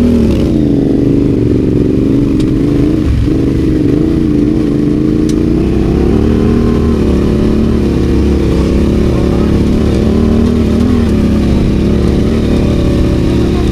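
Yamaha Ténéré 700 adventure motorcycle's parallel-twin engine running off-road, its pitch rising and falling with the throttle, over low rumble.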